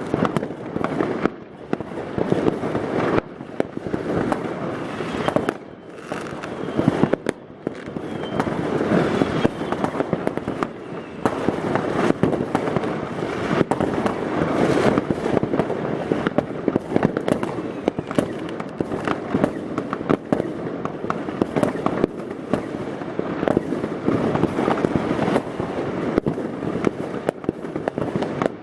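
New Year's Eve fireworks: a dense, unbroken barrage of bangs and crackling from many rockets and firecrackers going off at once, with a faint rising whistle about eight seconds in.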